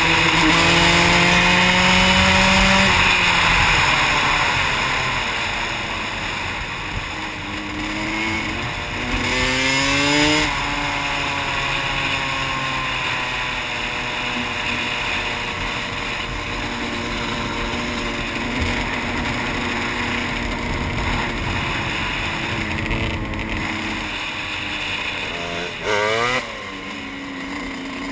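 Yamaha YZ125's 125 cc two-stroke single-cylinder engine under way off-road, its revs rising and falling with throttle and gear changes. The revs climb sharply about ten seconds in and again near the end.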